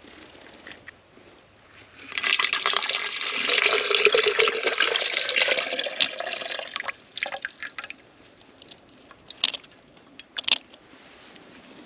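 Maple sap being poured from a collection bucket into a cooking pot. The pour starts about two seconds in and runs for about five seconds, followed by a few light knocks.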